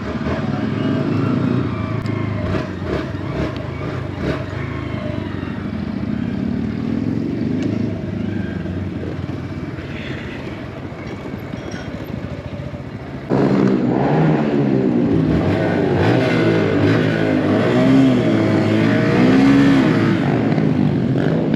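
Honda Grom mini bike's small single-cylinder engine running under way, with wind on the microphone. About thirteen seconds in it gets suddenly louder, its pitch rising and falling as the throttle opens and closes.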